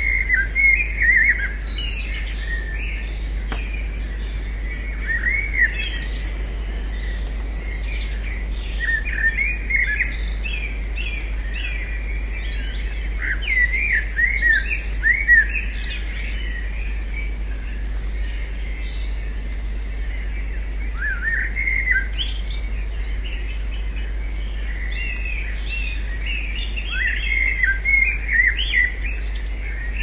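Wild birds chirping in clusters of short, quick chirps every few seconds, over a steady low rumble.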